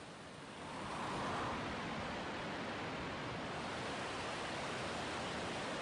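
Steady rushing of water, swelling in over the first second and then holding even, with no distinct splashes or tones.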